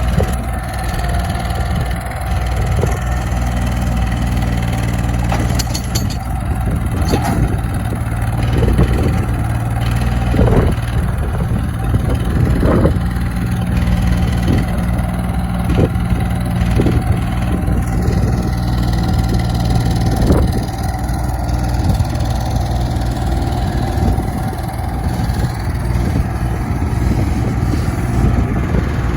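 New Holland TC33D diesel tractor engine running steadily, with a few short knocks and clunks over it.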